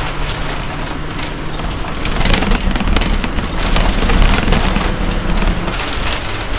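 Road vehicle noise: a steady low rumble with scattered clicks and rattles.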